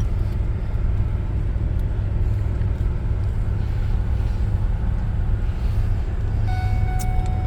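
Steady low rumble of a running vehicle's engine and tyres, with no change in pace. A faint steady tone with overtones joins near the end.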